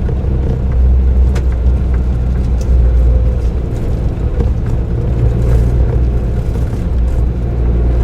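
Suzuki Jimny JB23W with an aftermarket muffler driving at steady speed: its 658 cc three-cylinder turbo engine and tyres make a continuous low drone, with a few faint ticks.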